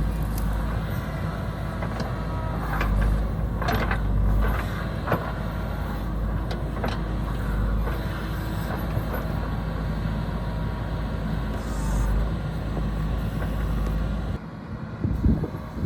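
Engine of a heavy road-construction machine running steadily, with several sharp metallic clanks and knocks. The engine sound cuts off suddenly near the end, followed by a louder knock.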